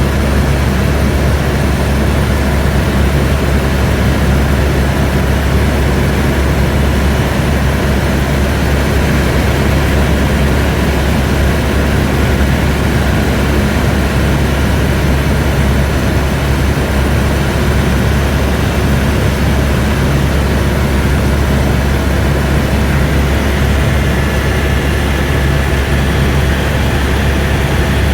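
Airbus (Eurocopter) AS350 B2 helicopter in steady cruise, heard from inside the cabin: a constant loud drone of turbine and rotors with a deep, even hum underneath.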